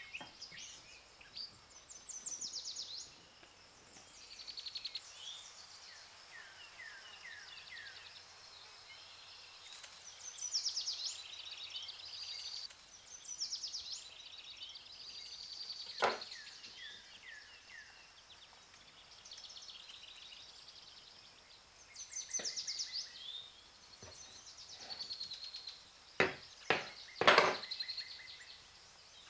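Small birds chirping and trilling over and over, with sharp knocks of a knife on the wooden table as the dough is cut: one about halfway through and three close together near the end, the loudest sounds.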